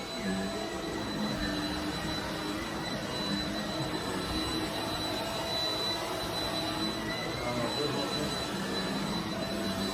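Shark Rocket stick vacuum running steadily on carpet: a continuous rush of airflow with a steady high whine from the motor.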